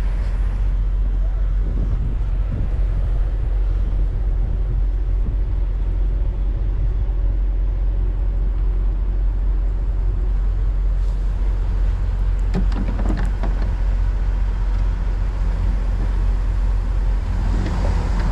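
Semi-truck diesel engine running steadily at low revs, a constant low hum.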